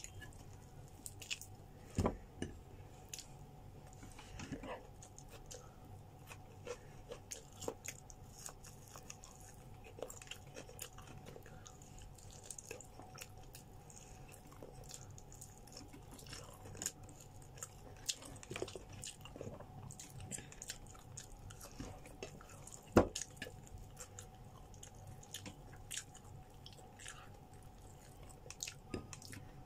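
Close-up eating sounds: grilled chicken being chewed and bitten, with many small wet mouth clicks as the meat is torn from the bone by hand. Two louder knocks stand out, one about two seconds in and another about two-thirds of the way through, over a faint steady hum.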